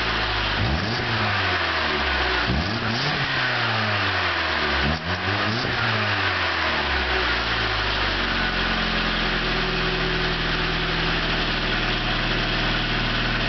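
1994 Saturn SC2's 1.9-litre DOHC four-cylinder engine, never rebuilt at over 400,000 miles, heard through its exhaust: revved in several quick throttle blips, each rising and falling in pitch, then settling to a steady idle about seven seconds in.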